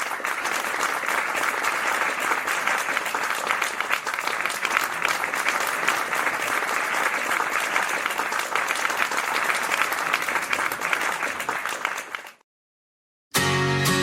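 Audience applauding, which stops abruptly about twelve seconds in. After about a second of silence, acoustic guitar strumming begins.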